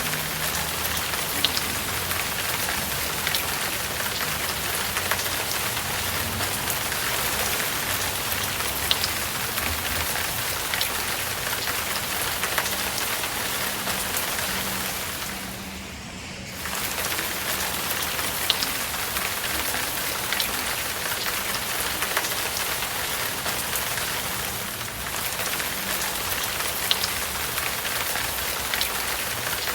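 Steady rain falling, with scattered sharp taps of individual drops; the sound dips briefly about halfway through.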